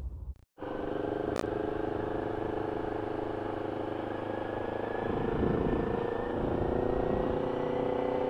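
Sport bike engine running at low revs while the motorcycle is ridden slowly, a steady note that swells a little about five seconds in. A single click about a second and a half in.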